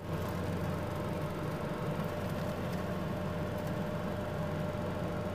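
Steady noise of heavy rain heard from indoors through a window, with a low, steady hum underneath.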